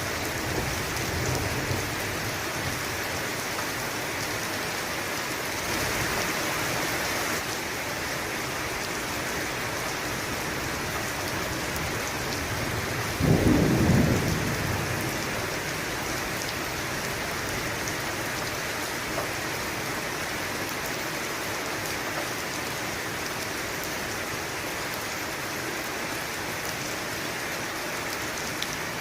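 Steady rain falling, with a sudden clap of thunder about halfway through that is the loudest moment and dies away over a second or two. A fainter low rumble of thunder sounds near the start.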